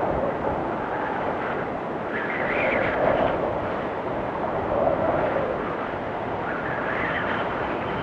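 Blizzard wind blowing steadily, with whistling gusts that swell and fade every second or two.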